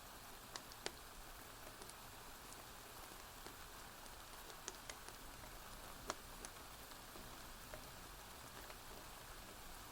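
Steady rainfall hiss, with a few sharp, irregular pops of a crackling fire scattered through it.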